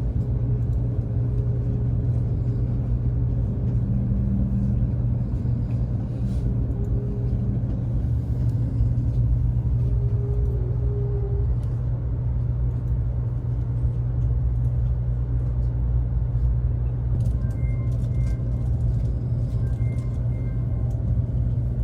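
Taiwan High Speed Rail bullet train running: a steady, even low rumble that does not change.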